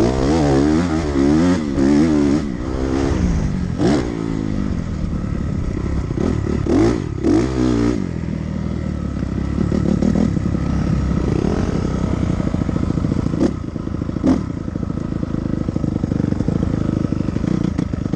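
Dirt bike engine being ridden hard, revving up and dropping off again and again with quick throttle blips. It settles into a steadier drone in the second half.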